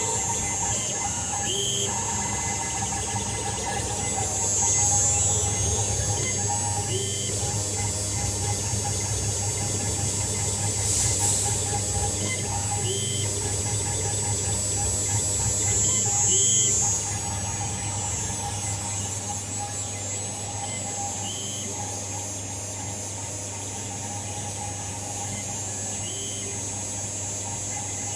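CNC engraving machine running: a steady low hum under a high-pitched whine, with short chirps recurring every few seconds.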